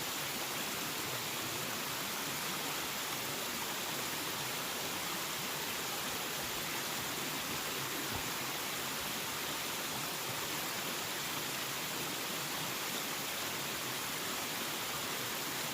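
Waterfall: a steady rushing of falling water, an even hiss-like roar with no change in level.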